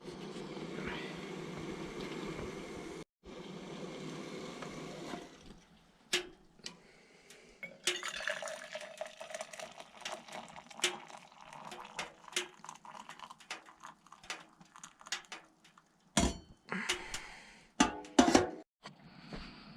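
Hot water pouring steadily for the first few seconds. Then come many light metal clinks of a cup, spoon and pot being handled while making tea, with a few louder knocks near the end.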